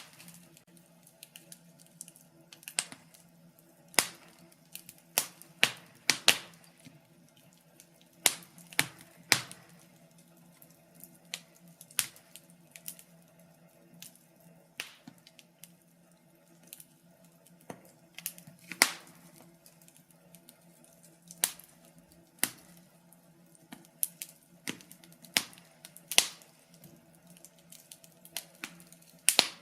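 Wood fire crackling in a fireplace: irregular sharp pops and snaps, one to three a second, a few of them much louder, over a faint steady low hum.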